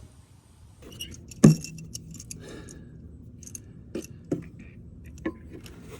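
Irregular clicks and clinks of a replacement ignition coil pack and hand tools being handled in a truck's engine bay, with one sharp knock about a second and a half in.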